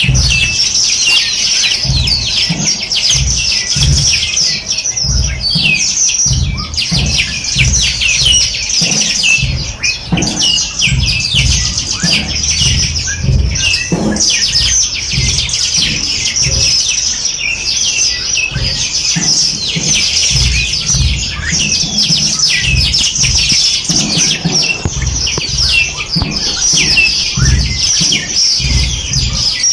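A dense chorus of many small songbirds chirping and trilling continuously, with many overlapping quick high notes. Irregular low rumbling thumps run underneath.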